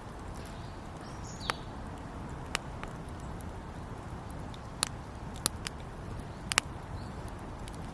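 Wood campfire crackling: a handful of sharp pops from the burning wood, about six scattered irregularly over a steady low hiss.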